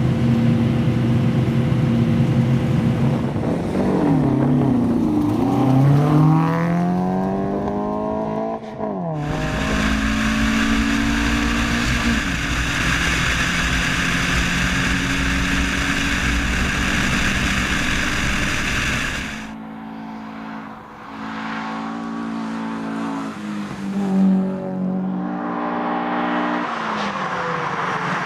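Toyota RA23 Celica hill-climb car's engine revving hard, its pitch climbing and dropping repeatedly as it goes through the gears. A loud rushing noise runs over it from about nine seconds in to about nineteen.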